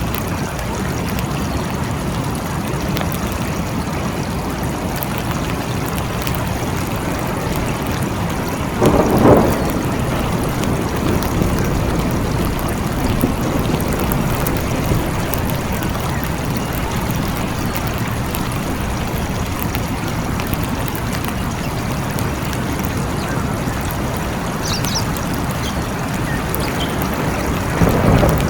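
Steady rain in a forest with a continuous low rumble underneath, and brief louder swells about nine seconds in and again near the end.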